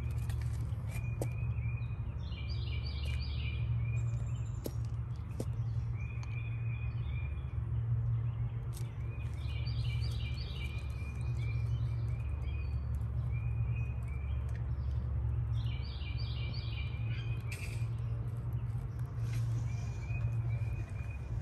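A songbird sings short phrases of quick repeated notes, about every six or seven seconds, over a steady low rumble.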